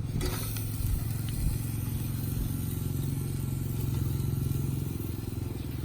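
A small engine running steadily, growing a little louder through the middle and dropping away about five seconds in.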